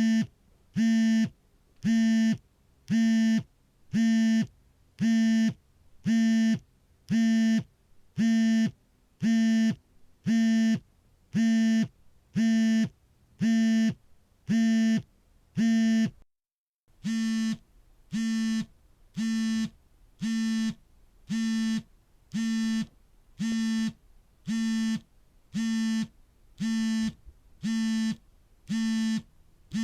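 Smartphone vibrating for an incoming call: short buzzes of a steady low hum, about one a second. The buzzing breaks off briefly about halfway through, then resumes slightly quieter.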